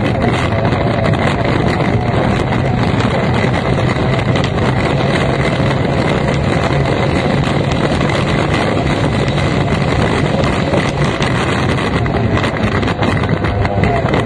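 F1 racing powerboat's outboard engine running hard and steady at speed, with wind buffeting the microphone.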